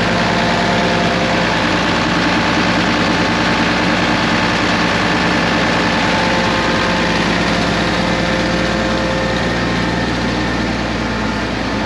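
Case IH Axial-Flow combine's diesel engine idling steadily.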